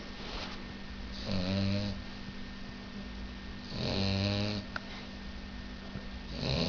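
French bulldog puppy snoring in its sleep: three snores, each lasting under a second, about two and a half seconds apart, with quieter breathing between them.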